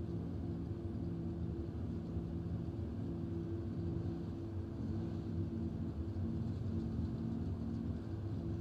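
Chevy II Nova drag car's engine idling steadily, holding an even pitch without revving.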